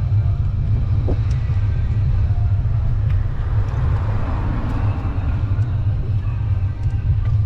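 Steady low wind rumble on the microphone of a bike ride through city streets, with traffic noise; a vehicle seems to swell past and fade about four seconds in.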